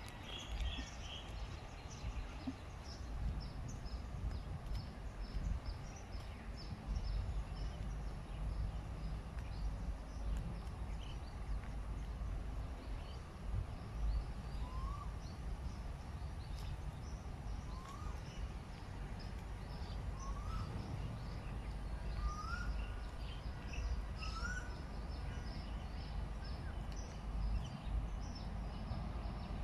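Birds calling: many short, high chirps throughout, and from about halfway a short rising call repeated five times, roughly every two seconds, over a steady low outdoor rumble.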